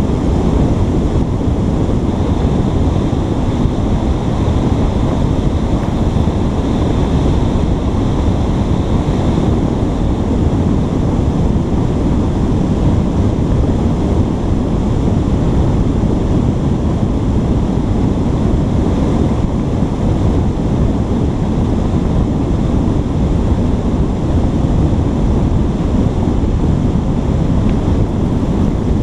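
Steady, loud low rushing of wind buffeting a GoPro camera's microphone, even and unbroken throughout.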